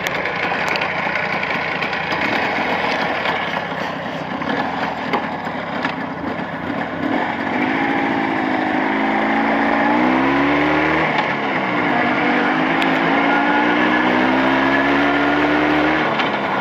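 Motorcycle engine running on the road, still being run in on freshly fitted Chinese cylinders. From about eight seconds in it revs up, drops back sharply at a gear change near eleven seconds, then pulls up steadily again.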